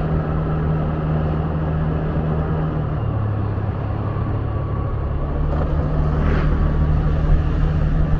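Motor scooter engine running steadily at road speed, heard from on the bike with wind and road noise. About three seconds in, a lower hum joins the engine note.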